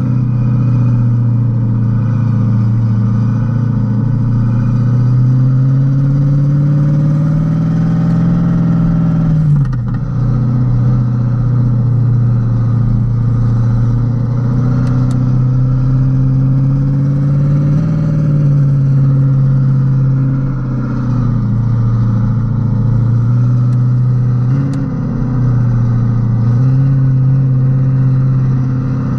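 Renault Kwid 0.8's three-cylinder engine running under way. The revs climb for several seconds, drop abruptly about nine seconds in, then hold fairly steady with small rises and falls.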